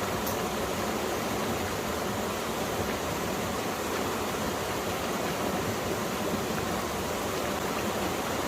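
Mountain valley stream with water rushing over rocks, a steady, even rushing sound.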